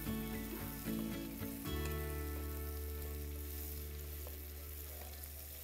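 Onions frying in hot oil in a wok, sizzling steadily as they are stirred with a wooden spatula, under soft background music with long held notes.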